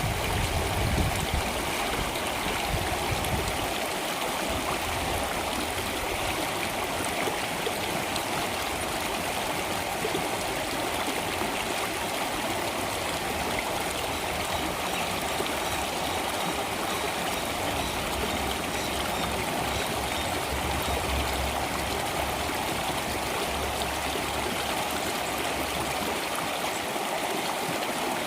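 Stream water flowing steadily in an even rush, with a low rumble underneath that comes and goes.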